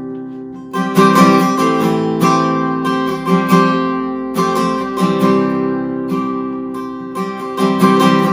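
Acoustic guitar strumming sustained chords, one strum about every second, each left to ring and fade, with no singing over it.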